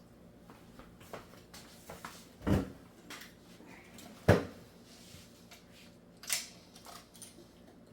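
Scattered knocks and clicks of things being handled, with three louder knocks, the loudest about four seconds in.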